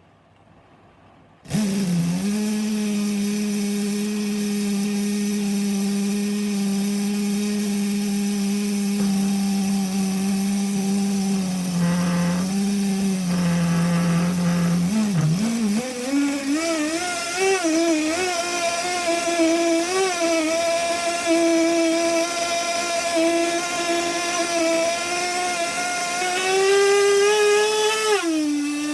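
SH 07 small nitro engine running on a test bench on 20% nitro fuel. It cuts in suddenly and runs at a steady high-pitched whine for about thirteen seconds. After a brief stumble it revs higher with a wavering pitch, goes higher still near the end, then drops back.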